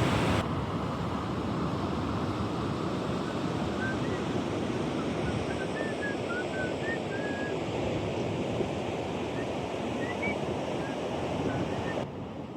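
Steady rush of water, with a few short bird chirps over it in the middle stretch.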